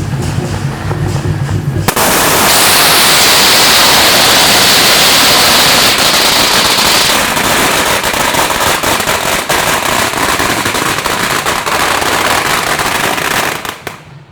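A long string of firecrackers going off as one dense, continuous crackle. It starts suddenly about two seconds in and cuts off shortly before the end.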